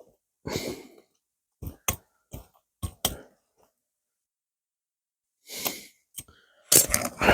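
A man's heavy breaths and sighs, with a few sharp clicks between them; the loudest, a long breathy sigh, starts near the end.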